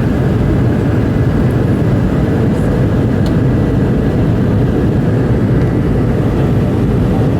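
Cabin noise inside a Boeing 717-200 during departure: a loud, steady rumble from its rear-mounted Rolls-Royce BR715 turbofans and the airflow, with faint steady tones over it.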